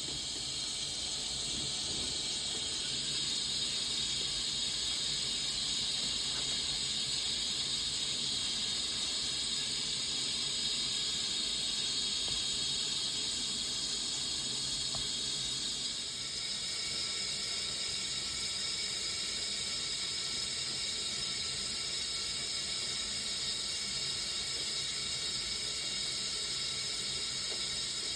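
1978 Siemens WA4600 washing machine filling with water through its inlet valve at the start of the wash: a steady rushing hiss of water flowing in.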